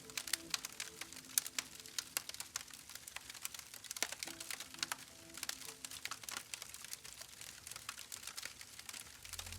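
Wood campfire burning, with frequent irregular crackles and snaps, some sharper pops standing out, over faint steady low tones.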